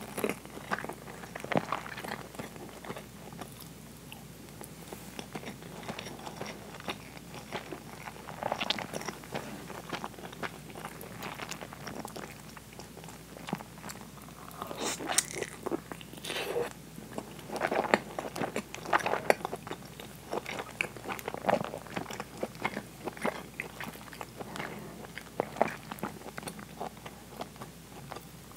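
Close-miked eating sounds: biting into and chewing soy-braised pork belly and white rice, with many irregular short clicks and smacks of the mouth, busiest about halfway through.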